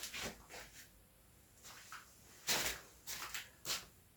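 Screwdriver work on the plastic underside of a keyboard: a few short scraping and clicking handling noises as screws are taken out, the loudest about halfway through and near the end.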